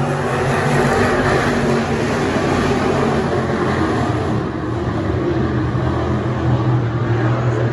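Late model stock cars' V8 engines running hard as the field races around the track: a loud, continuous engine noise of several overlapping engines. A low engine note grows stronger in the last few seconds as cars come closer.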